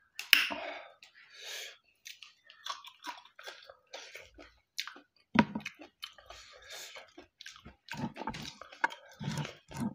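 A person chewing a mouthful of rice and buffalo curry eaten by hand, with irregular wet clicks and smacks of the mouth.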